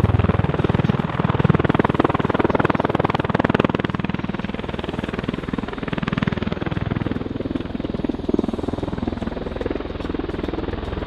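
MV-22 Osprey tiltrotor hovering in helicopter mode: the rapid, pulsing beat of its two proprotors over the steady run of its twin Rolls-Royce turboshaft engines. It eases a little quieter in the second half.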